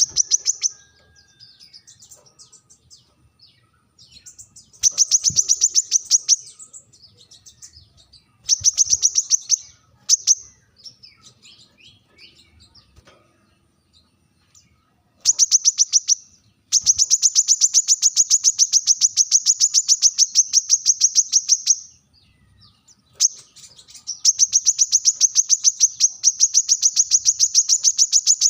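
Brown-throated sunbird (kolibri kelapa) giving its sharp challenge song: fast, high-pitched trills of rapidly repeated notes. It starts in short bursts, then runs in two long trills of several seconds each, with soft twittering in the gaps.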